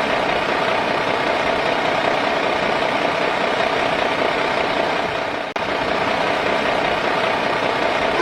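A small motor running steadily, with a brief sharp break about five and a half seconds in.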